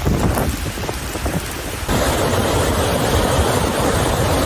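Heavy rain pouring down on a flooded street, a steady rushing noise. About two seconds in it cuts to a louder, denser rush of rain and flowing floodwater.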